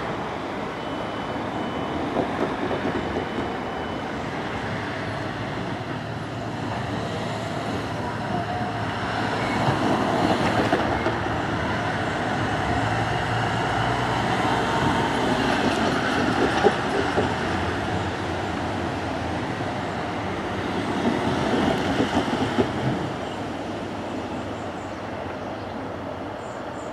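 Diesel multiple unit train pulling away from the station, engine running under power and wheels on the rails; the rumble grows louder in the middle and fades near the end as the train draws away.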